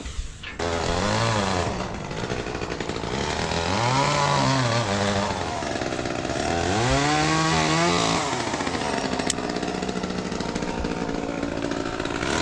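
Chainsaw starting up about half a second in, then revving up and down three times as it cuts a limb.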